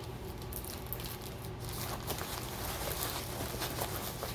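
Faint handling noise, with light rustling and small scattered taps, over a low steady hum.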